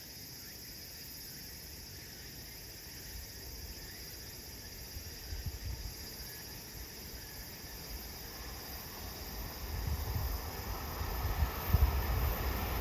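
Steady high-pitched insect chirring, with the low rumble of an approaching train hauled by an EF510 electric locomotive growing louder from about eight seconds in.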